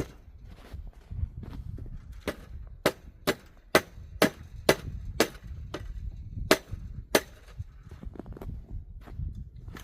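Footsteps crunching through deep snow, a sharp crunch about twice a second at a walking pace.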